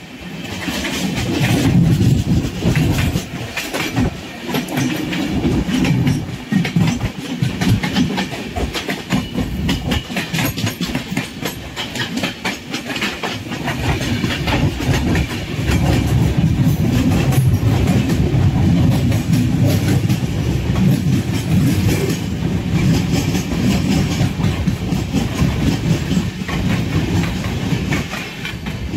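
Passenger coaches of a passing express train rushing by on the adjacent track, a heavy rumble under a fast, continuous clickety-clack of wheels over rail joints. It fades near the end as the last coach goes by.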